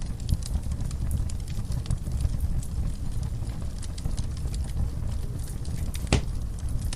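Wood fire burning in a fireplace: a low steady noise of the flames under scattered small crackles and pops from the burning logs, with one louder crack about six seconds in.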